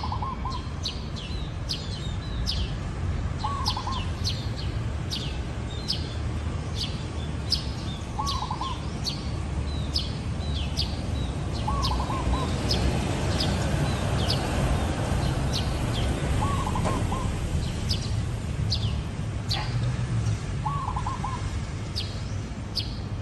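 Zebra dove cooing: a short, trilled, rolling phrase repeated about every four seconds, six times. Other small birds chirp sharply and often above it, over a steady low background rumble.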